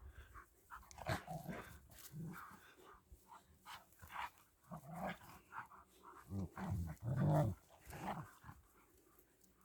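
German Shepherds vocalising in short, irregular bursts while rough-playing together, the loudest about seven seconds in.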